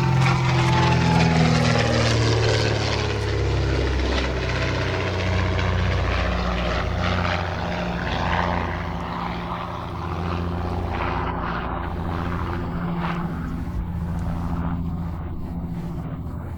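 Propeller aircraft passing, from the DH.88 Comet's twin de Havilland Gipsy Six piston engines. The engine note drops in pitch over the first few seconds as the aircraft goes by, then settles into a steady drone that slowly fades as it moves away.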